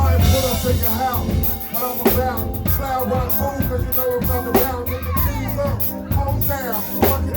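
Band music with a steady drum beat, heavy bass and a pitched lead line bending up and down.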